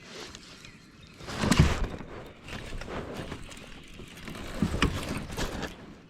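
Knocks and scraping against the kayak as a small hooked bass is brought in, the loudest knock about a second and a half in and a second cluster near the end.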